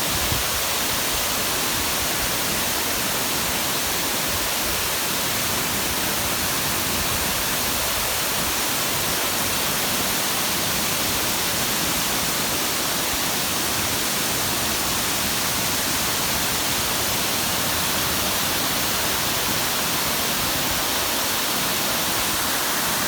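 Waterfall cascades of a river pouring steadily, an even rushing hiss with no letup.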